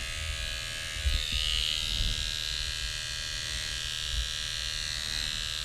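Electric hair clippers buzzing steadily while lining up a haircut, the buzz rising a little in pitch about a second in.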